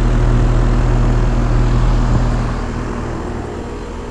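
A 5-ton Trane XE1000 Weathertron heat pump's outdoor unit running in heat mode: a steady low compressor hum under the whoosh of the condenser fan. The sound grows quieter about two and a half seconds in.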